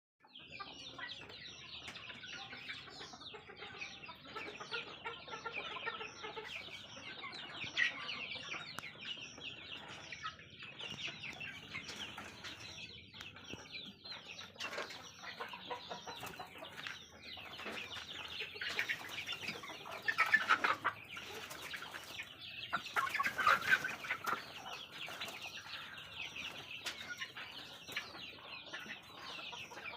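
A flock of young native country chickens keeps up a continuous high peeping and clucking, with a few louder calls standing out about a third of the way in and again about two-thirds through.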